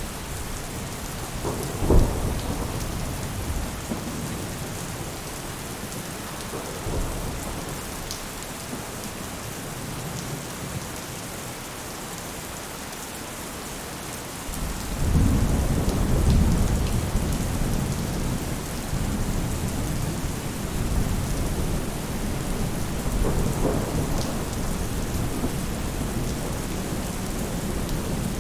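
Steady rain falling on a roof, an even hiss, with a sharp clap of thunder about two seconds in and a long, low rumble of thunder that starts about halfway through and continues to the end.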